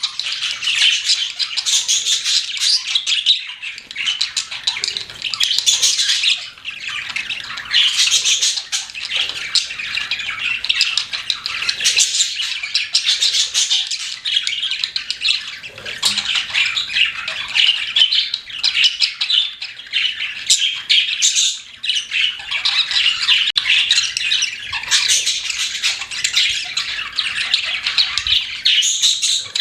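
Several pet budgerigars chattering and chirping together, a dense continuous warble of high calls with no let-up.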